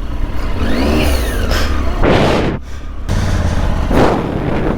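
Triumph Tiger 800's three-cylinder engine revving up and dropping back as the bike works over tree roots on a muddy trail. Two short noisy bursts come about two and four seconds in.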